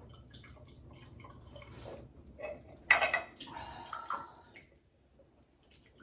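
Dishes and cutlery clinking and being handled, with one sharp, louder clink about three seconds in.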